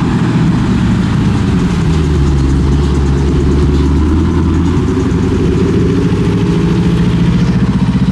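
Wide body Dodge Hellcat's supercharged V8 rumbling loudly at low revs as it rolls slowly past, its note rising a little about halfway through.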